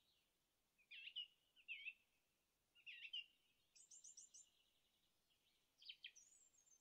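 Faint birdsong: several short chirps and quick trills, with a run of high rapid notes near the middle and a falling trill near the end.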